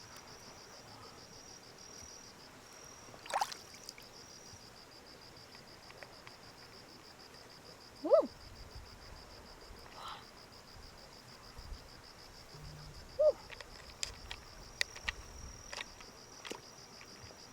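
Insect chirping in a steady, fast-pulsing high trill, with a few sharp clicks and brief short sounds now and then.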